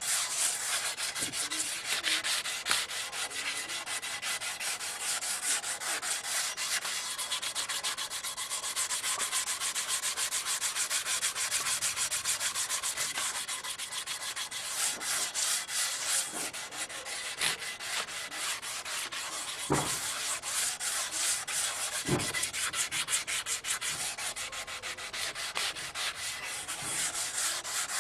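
Sandpaper rubbing over an aluminium sewing machine cover in quick, continuous back-and-forth strokes, sanding the metal down before polishing. Two dull knocks come in the second half.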